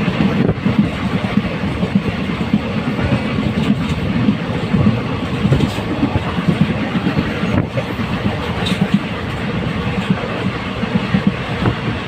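Passenger train running at speed, heard from inside a coach by the window: a steady rumble and clatter of the wheels on the rails.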